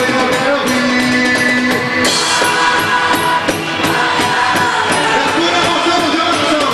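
Festa junina band music: voices singing over a steady percussion beat and sustained instrument tones.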